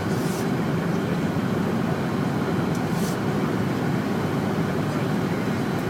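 Steady cabin noise inside a Fokker 100 airliner: a low, even rumble of its rear-mounted Rolls-Royce Tay turbofans and the airflow over the fuselage, with two short faint hisses about half a second and three seconds in.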